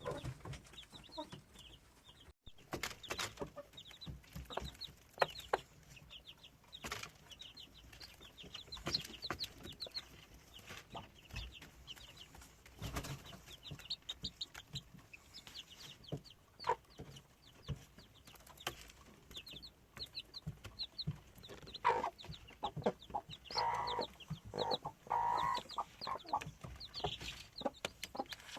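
Chicks peeping in quick, high-pitched series, with a broody hen clucking low among them for a few seconds near the end, and scattered light taps and knocks.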